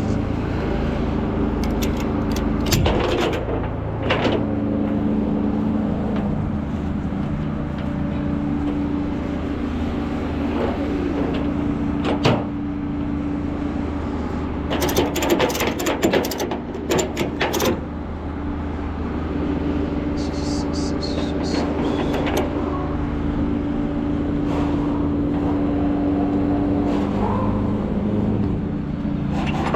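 Truck engine and road noise heard from inside the cab while driving, a steady drone with scattered clicks and rattles.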